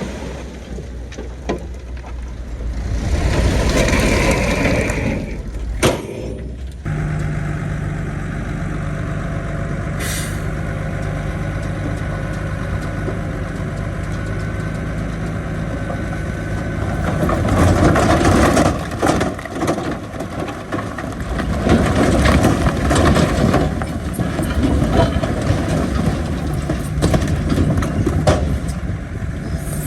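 Heavy diesel earthmoving machinery (bulldozers and a dump truck) running, with a hiss in the first few seconds and the sound changing abruptly a few times. Louder, rough clattering work noise comes in over the engine from about two-thirds of the way through.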